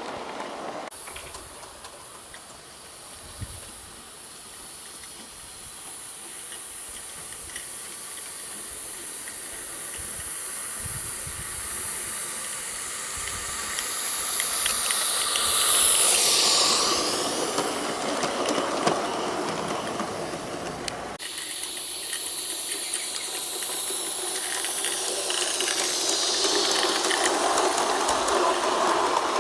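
G-scale live steam model locomotive running, its steam hissing steadily, growing louder as it passes close by about halfway through.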